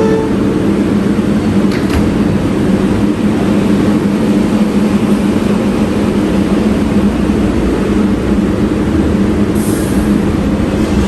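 New York City subway train running in the station: loud steady running noise with a low, even hum, and a brief hiss near the end.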